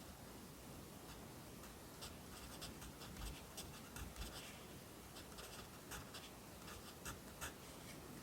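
Pencil writing Korean characters on paper: short, irregular scratching strokes in quick clusters with brief pauses between letters, two sharper strokes near the end.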